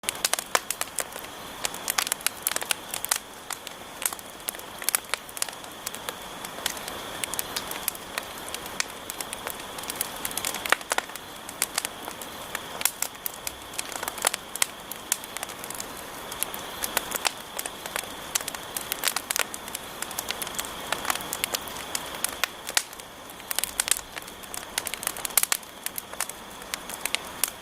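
Wood campfire burning down, crackling with frequent irregular sharp pops over a steady hiss, and a faint steady high tone underneath.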